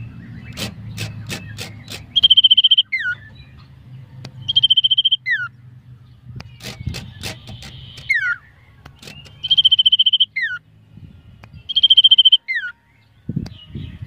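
Common iora (cipoh) singing a short phrase over and over, about every two seconds: a buzzy trill held on one pitch, then a quick falling whistle. Sharp clicks come in a few bursts between the phrases.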